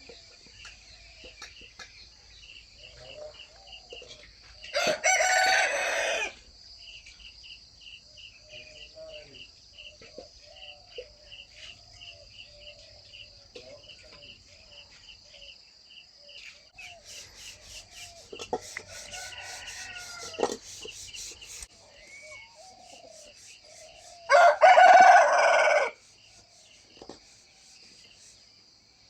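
A country-breed (naati) rooster crowing, two loud crows of about a second and a half each, one about five seconds in and one near the end, with a fainter crow in the middle. Hens cluck softly between the crows over a steady chirring of crickets.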